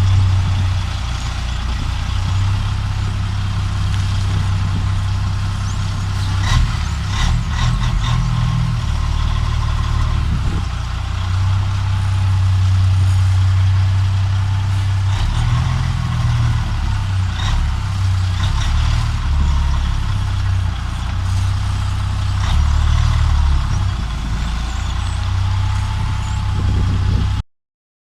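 Heavy truck's diesel engine running, its low drone shifting in pitch several times, with a few short clicks and hisses over it; it cuts off suddenly near the end.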